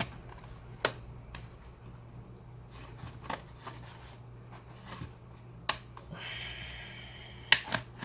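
Sharp clicks and snaps of plastic and tools as a laptop is being taken apart, about five in eight seconds with two close together near the end, and a short scraping rasp a little after six seconds. A low steady hum runs underneath.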